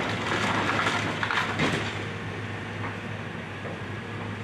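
Excavator demolishing a house: the machine's diesel engine runs with a steady low hum while wood and debris crack and crunch over the first two seconds, then the crunching dies down.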